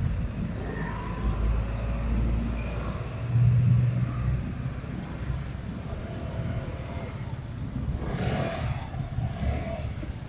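Distant aerial fireworks display heard as a continuous low rumble of far-off shell bursts, muffled because the wind carries the sound away. A louder low drone comes about three and a half seconds in, and a brief rushing swell follows near the end.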